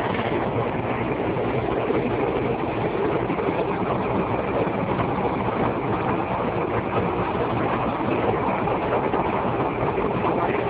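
Steady engine and road noise of a vehicle driving, an even rumble with no sudden events.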